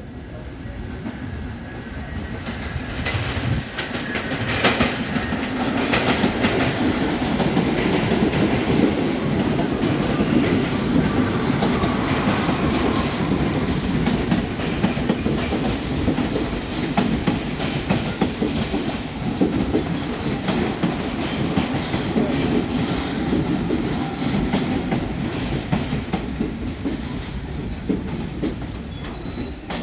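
Subway train running along the track, its wheels clattering over the rail joints. The sound builds over the first few seconds, with a run of sharp clicks, and then holds at a steady rumble.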